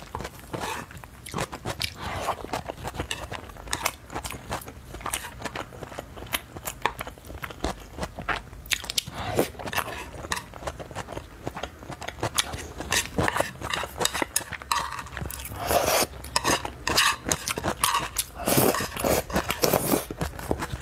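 Close-miked eating: biting and chewing of soft food with wet mouth sounds and many short clicks. The sounds get louder over the last few seconds.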